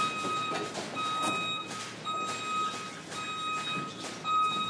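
Vehicle reversing alarm beeping steadily, one long single-pitched beep about every second.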